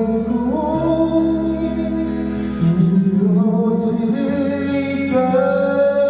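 Slow, sad song: a singing voice holding long, gliding notes over instrumental backing.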